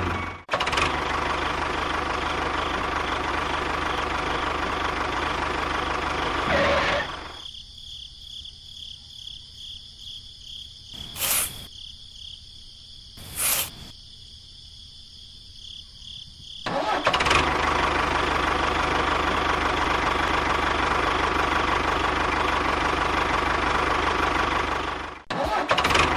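A motor running steadily, which cuts off abruptly after about seven seconds. A quieter stretch follows with two short, sharp sounds, then the motor runs again.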